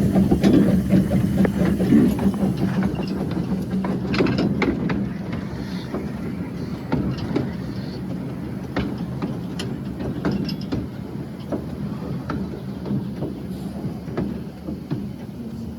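Hunslet narrow-gauge steam locomotive rumbling and rattling as it runs slowly, heard from the footplate, with scattered clanks and knocks; the running noise gradually eases off as it moves back onto its train.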